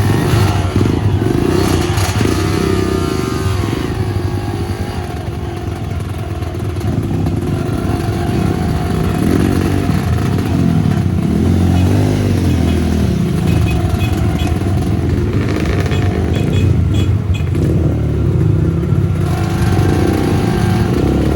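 Off-road motorcycle engine running loud, its pitch rising and falling again and again as the throttle is opened and closed.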